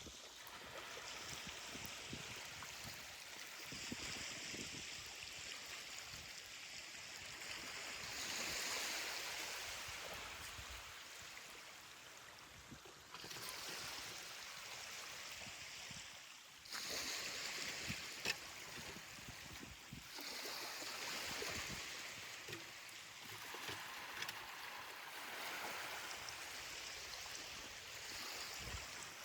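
Small ocean waves washing up on a beach and drawing back, the surf swelling and fading in repeated surges a few seconds long.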